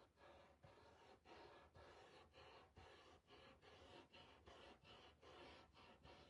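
Faint rhythmic rubbing strokes, about two a second, as dark wax is worked onto the edges of a wooden frame.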